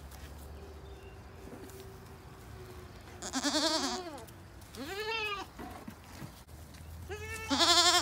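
Goat bleating three times, each call a wavering, arched cry, the last one the loudest.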